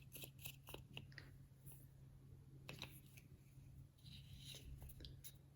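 Near silence: a few faint clicks and light handling noises over a low steady hum.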